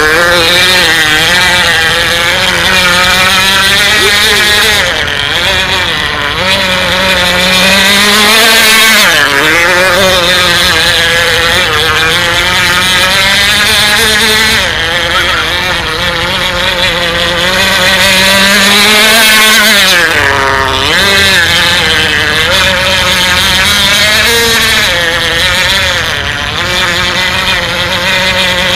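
K&B 7.5 cc model outboard engine on a radio-controlled F1 tunnel boat, running loud and high-pitched. Its pitch rises and falls repeatedly as the throttle and load change, with brief dips in loudness every few seconds.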